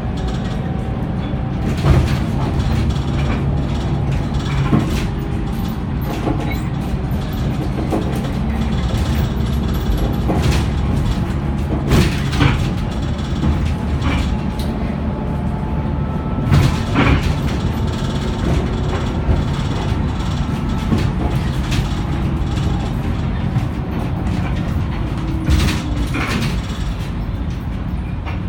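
Inside a Scania K94UB bus on the move: the engine and drivetrain running with a steady low hum, a faint whine that slowly shifts in pitch, and body rattles and knocks, a few of them sharper.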